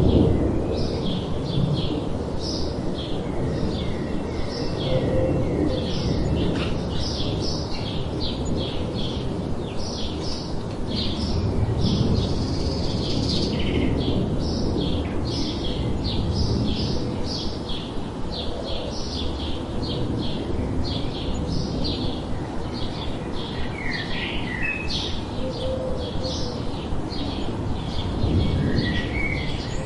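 Many small birds chirping in quick, overlapping short notes, over a steady low background rumble.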